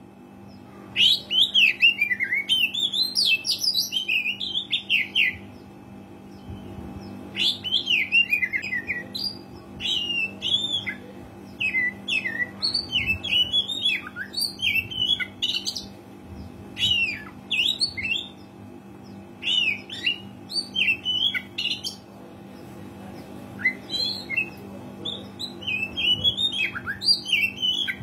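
Oriental magpie-robin singing loud, varied whistled phrases that sweep quickly up and down, in bursts of a few seconds separated by short pauses, with a faint steady hum beneath.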